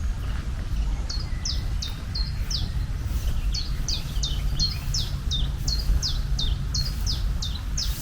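A bird calling a rapid series of short, high chirps, each sweeping down in pitch, about two to three a second, starting about a second in, over a steady low rumble.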